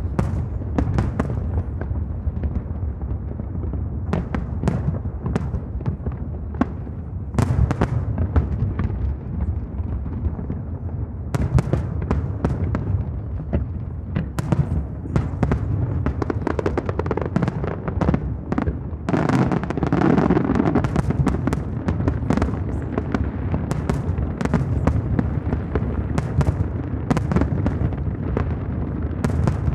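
Aerial fireworks going off in a continuous barrage: many sharp bangs and crackles over a steady low rumble, building to a denser, louder salvo about twenty seconds in.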